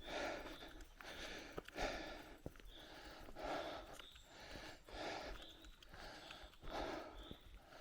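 A cyclist breathing hard and rhythmically while pedalling, with a strong breath about every 0.8 s. Faint short squeaks come in every second or two.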